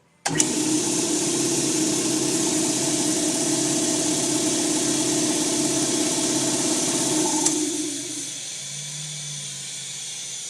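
Electric air compressor switched on through its new pressure switch: the motor and pump kick on at once and run with a steady hum and rush of air. About seven and a half seconds in there is a click and the running stops, leaving a steady hiss of air escaping through the tank's drain valve, which was left open.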